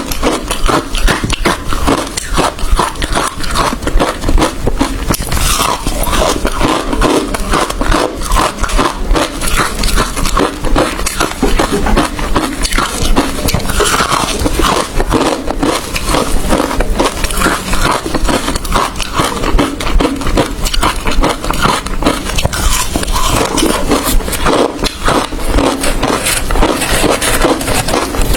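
A person biting and chewing hard ice close to the microphone: a dense, unbroken run of sharp crunches and cracks.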